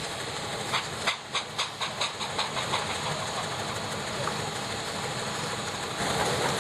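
Steam traction engine at work: a run of regular exhaust beats, about four a second, lasting a couple of seconds. The beats give way to a steady steam hiss.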